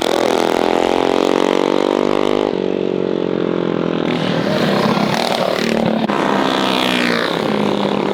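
Mini bike engines running and revving, the pitch rising and falling slowly, with more than one engine heard at once in places.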